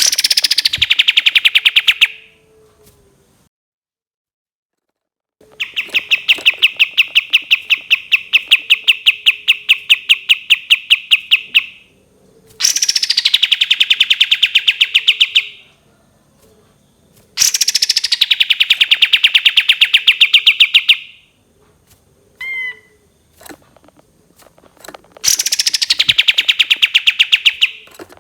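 Kapas tembak bird singing its rapid-fire 'tembakan' song: five long trills of fast, evenly repeated notes, several per second, each trill opening with a downward sweep. A few short single chirps come between the fourth and fifth trills.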